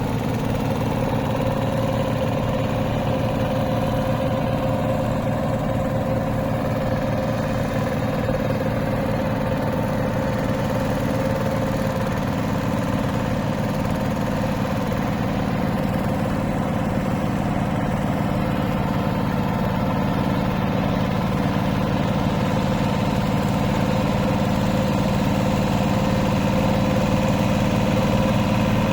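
Hand tractor's single-cylinder diesel engine running steadily with an even, rapid chug, getting a little louder near the end.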